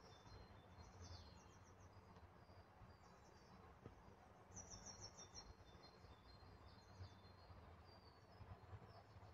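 Near silence, with faint high bird chirps and short quick trills of repeated notes, the clearest about a second in and again around the middle, over a faint low rumble.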